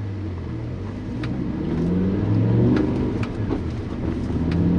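BMW M5 E60's 5.0-litre V10 heard from inside the cabin, accelerating: its pitch climbs, eases off about three and a half seconds in, then climbs again as it gets louder.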